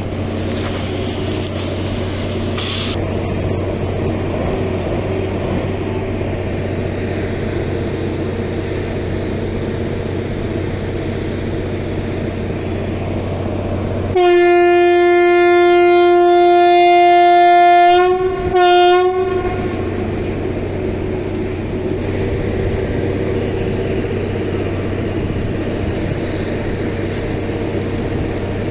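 Train horn sounding one long blast of about four seconds, then a short second blast, over the steady low rumble of a train running past.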